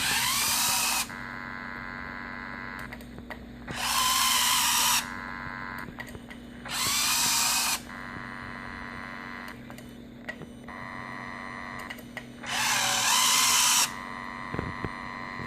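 Small electric motor whirring in four bursts of about a second each, with a pitch that bends up and down: a Lionel R-30 model subway car's door mechanism trying to work doors that the owner suspects are stuck. A steady electrical hum underneath.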